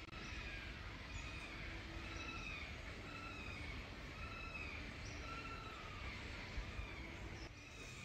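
A bird calling over and over, short arching notes roughly once a second, over a steady low background rumble of open-air noise.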